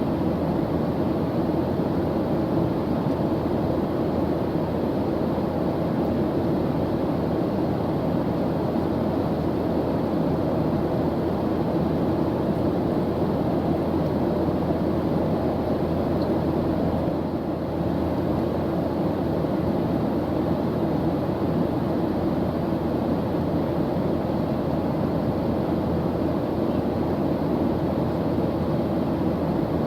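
Airplane engine noise: a steady, even rush centred low in pitch, unchanging throughout.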